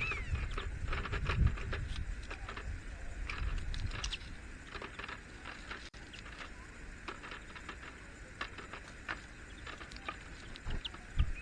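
Great spotted woodpecker pecking at a feeder: irregular sharp taps, with a few brief high chirps and a low rumble underneath.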